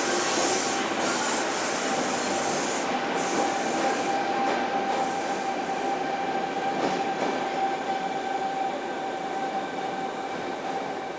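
Sydney electric commuter train running: a steady rumble of wheels and motors with a held whining tone. There is extra high hiss for the first few seconds.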